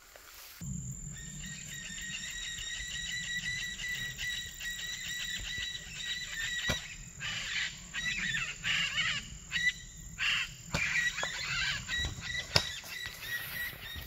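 Birds chirping and calling over a steady, rapidly pulsing high trill, with a few sharp cracks, the loudest near the end.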